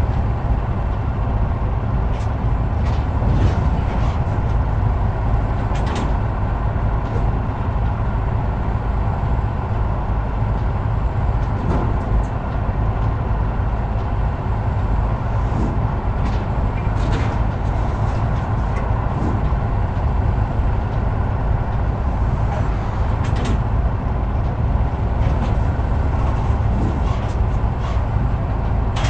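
Heavy truck driving at steady speed: constant engine and road rumble, with a few faint clicks or rattles.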